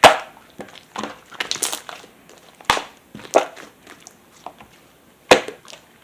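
Pearl slime being squeezed and folded by hand, with irregular sharp pops and crackles as trapped air bubbles burst. The loudest pops come right at the start and again about five seconds in.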